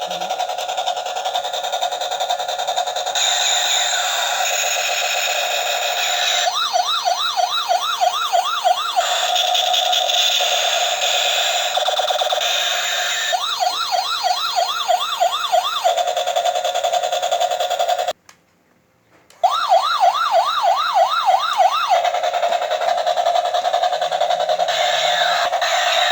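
SWAT helicopter toy playing its electronic siren sound effect: a steady tone broken by three spells of fast warbling yelp, about five sweeps a second. The sound cuts out for about a second roughly two-thirds of the way through.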